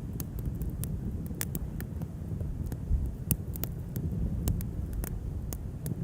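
Wood campfire crackling, with sharp irregular pops and snaps, over a steady low rumble of flame and wind.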